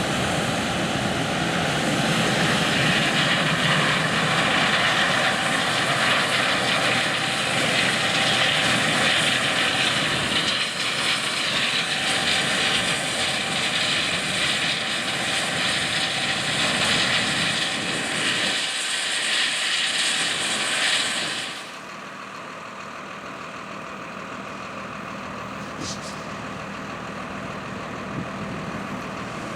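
Massey Ferguson harvest machinery running steadily under load: a loud, dense mechanical noise with a steady hum. About 21 seconds in it drops suddenly to a quieter, steady running sound.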